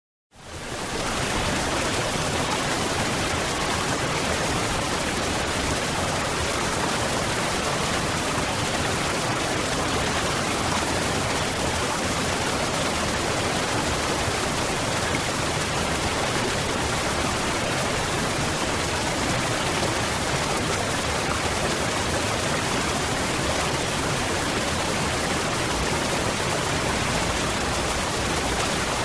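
Waterfall: a steady, even rush of falling water. It fades in quickly from silence at the very start.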